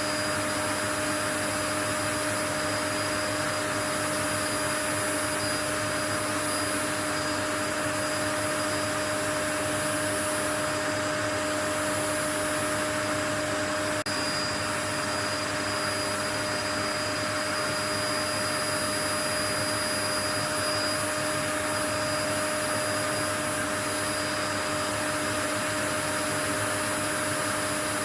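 Steady white noise: an even, unchanging hiss with a few faint constant hum tones running through it, like a motor-driven appliance.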